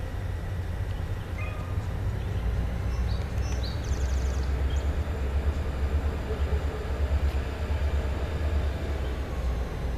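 Diesel freight train rumbling by, a low steady rumble that swells in the middle, with a few brief high chirps about three to four seconds in.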